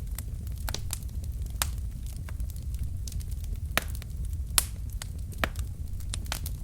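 Wood fire burning in a fireplace: burning logs crackling and popping at irregular intervals over a steady low rumble of the flames, with one louder pop a little past halfway.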